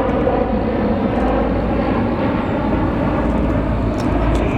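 Class 218 diesel-hydraulic locomotive's V12 engine running hard under load, a loud, steady drone with a deep rumble underneath.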